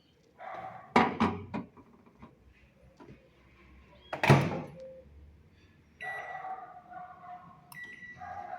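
Panasonic microwave oven: latch clicks and knocks as its door is worked, one loud knock about four seconds in, then about six seconds in the oven starts running with a steady hum.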